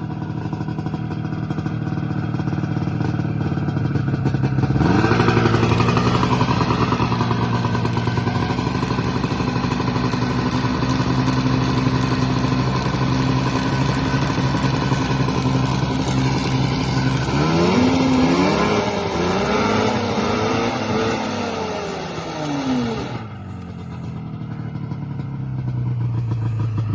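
Yamaha VMax 600 snowmobile's two-stroke engine idling, then revved up about five seconds in and held at a steady higher speed. It is then blipped up and down several times before dropping back to idle near the end.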